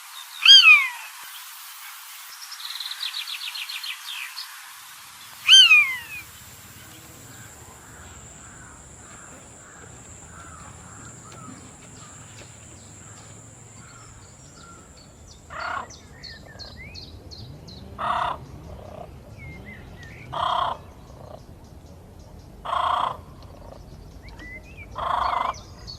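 Birds calling. Near the start come two loud calls that fall in pitch, about five seconds apart. From about sixteen seconds in, a short call repeats roughly every two and a half seconds.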